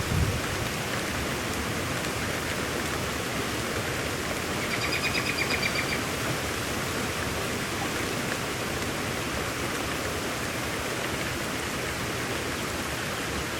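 Steady, heavy rain falling. A dull low thump comes right at the start, and about five seconds in a brief, rapid high chirping trill of quick pulses is heard over the rain.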